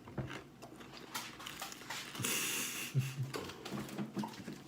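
Small wet clicks and smacks of a person eating chicken wings, with a short hiss a little past two seconds in.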